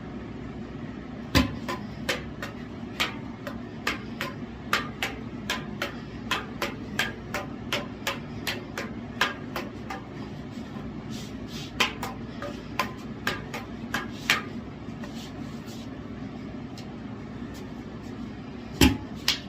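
Devil sticks being juggled: the hand sticks strike the centre stick in a run of sharp knocks, about two to three a second, for some thirteen seconds. After a pause come two louder knocks near the end.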